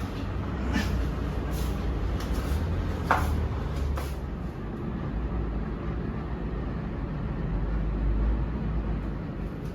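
Steady low rumble of a moving vehicle, with a few brief sharp clicks or squeaks over it.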